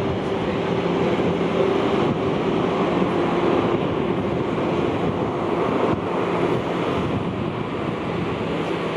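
Jet airliner engines running: a steady, loud rushing noise with a faint hum in it that fades out about six and a half seconds in.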